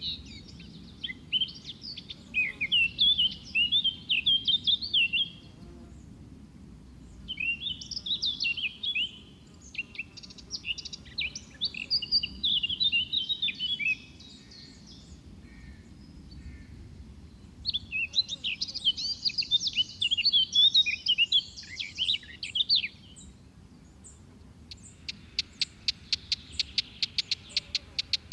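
A songbird singing in four long bursts of quick, varied chirping and warbling notes, with short pauses between them. Near the end a fast, even series of ticking notes starts, about eight a second.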